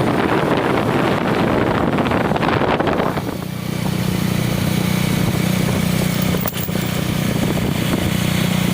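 Motorcycle riding: a dense rushing noise for about the first three seconds, then a steady engine hum for the rest.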